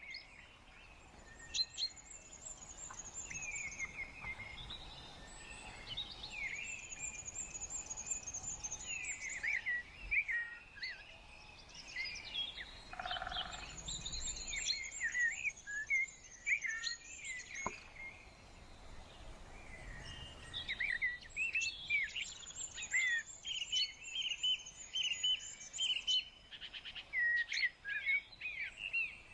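Several wild birds singing and calling outdoors: many short chirps and quick rising notes, with a run of fast, high, repeated notes coming in four times.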